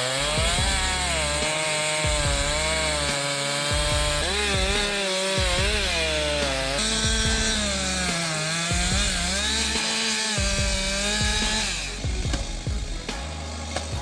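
Chainsaw cutting into wood, its engine pitch dipping under load and recovering again and again. About twelve seconds in the saw drops away, leaving a few scattered cracks.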